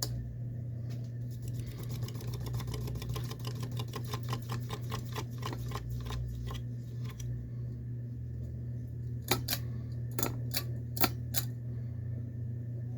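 Westinghouse InstaLock 42-inch ceiling fan with its motor humming steadily. A rapid ticking starts about a second and a half in and fades out after about six seconds. Several louder, sharp clicks follow near the end.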